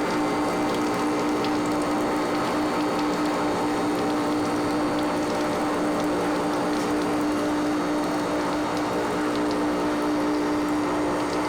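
Factory machinery running with a steady hum: a constant mid-pitched drone over a mechanical whirr, unchanging throughout.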